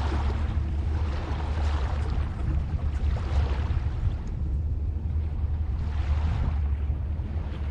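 Recorded ocean waves washing ashore: a hiss of surf swells and fades every couple of seconds over a steady deep rumble.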